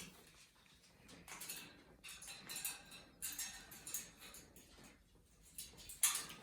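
Faint scattered scratching and light tapping, a string of short bursts with a sharper click near the end: a pet bird's claws and beak on its cage.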